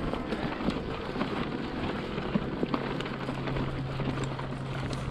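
Mountain bike rolling over gritty slickrock: a steady crackling hiss of tyre and grit noise with many small ticks and rattles. A steady low hum joins about halfway through.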